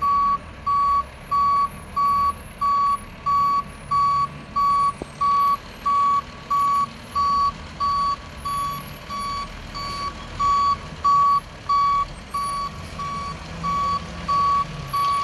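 Backup alarm of a Mack MRU Heil front-loader garbage truck beeping steadily, about one and a half beeps a second, over a low engine rumble as the truck reverses.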